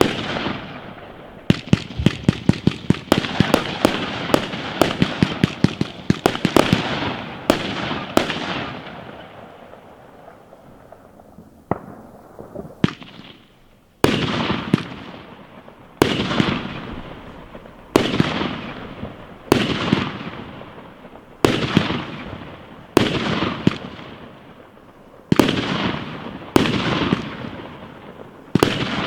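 Fireworks going off: a rapid volley of many sharp bangs for about the first eight seconds that dies away, then after a short lull single bangs about every second and a half, each trailing off.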